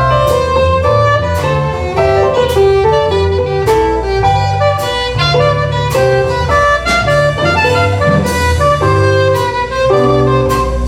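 Live instrumental ensemble music: a melody line over a moving bass line, with sharp accents about once a second.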